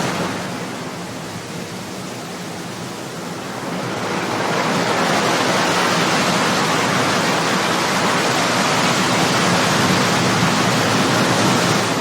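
Ocean waves breaking and washing on a shore, a steady rush of surf that eases briefly and swells again about four seconds in.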